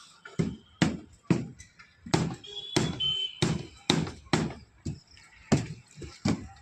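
A series of about a dozen dull thumps, roughly two a second, with a brief high squeak near the middle.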